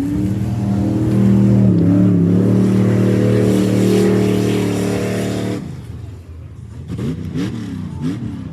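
Rally truck's engine running hard and steady, with a brief dip in pitch about two seconds in. About five and a half seconds in it cuts off abruptly to a quieter engine revving up and down several times.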